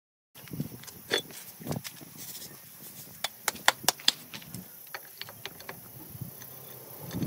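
Scattered sharp clicks and light knocks over a faint background, with a quick cluster of loud clicks about three to four seconds in.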